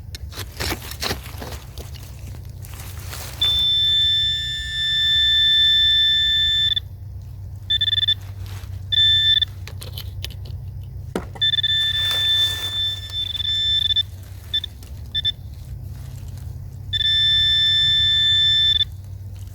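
Metal detector pinpointer sounding a steady high electronic tone over a buried target: several long held tones and a few short beeps as the probe moves in and out of range. Between the tones come knocks and scrapes of digging in rocky soil. The target is an old shotgun shell lying deep under rocks.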